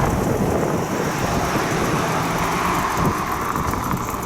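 Steady rush of passing road traffic and wind, heard by a rider cycling along.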